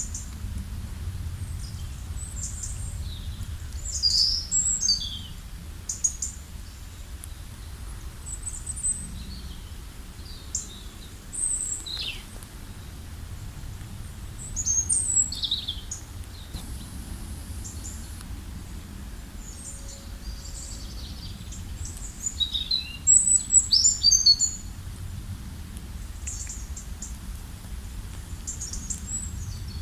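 Songbirds chirping and singing in short high phrases and quick falling notes every few seconds, loudest in a burst of rapid chirps near the end, over a steady low rush of flowing river water.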